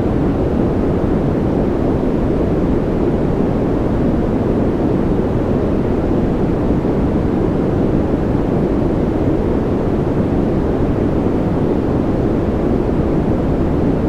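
Steady, unchanging generated white noise for sleep, heavy in the low end, so it sounds like a deep, even hiss or rumble rather than a bright one.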